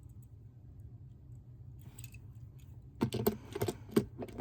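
Die-cast toy cars being handled, giving a quick run of small clicks and clinks about three seconds in, over a faint steady low hum.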